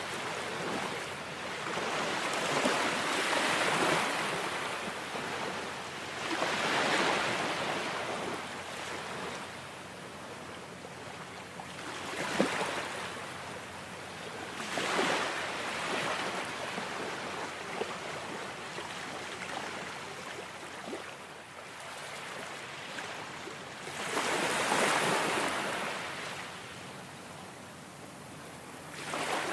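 Ocean waves breaking, the rush of water swelling and falling back every few seconds.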